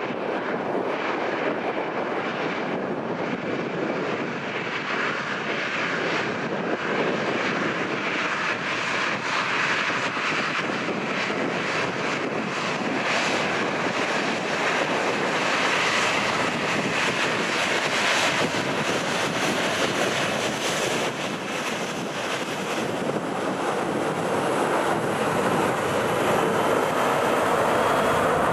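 Jet aircraft engines running: a steady, dense noise that grows a little louder toward the end.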